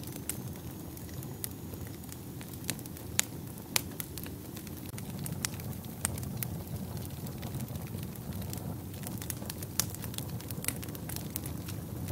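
Wood fire burning in a fireplace: a steady low rumble of flames with frequent sharp, irregular crackles and pops, a few louder pops around three to four seconds in.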